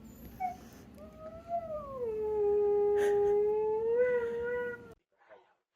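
A dog howling: one long howl of about four seconds, fairly level in pitch with a slight rise at the start and a small upturn near the end, that cuts off abruptly.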